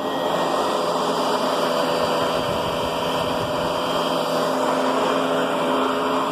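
Riccar Brilliance upright vacuum cleaner running steadily, its motor giving a constant whine over a rush of air.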